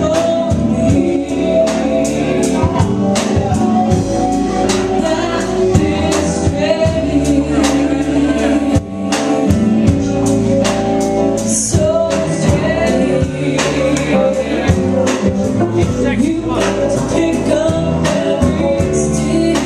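A band playing a song with singing over a steady drum beat.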